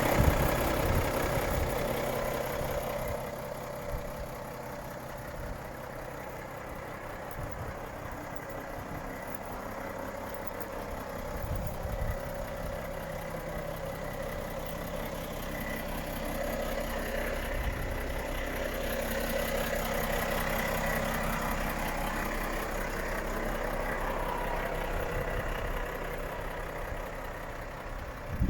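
Renault T 480 truck's diesel engine idling steadily. It is louder in the first few seconds and settles after about four seconds, swells slightly in the second half, and ends with a few knocks.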